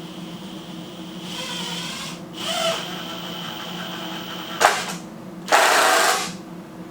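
Power drill run in several short bursts, with a sharp knock just before the last burst, which is the loudest.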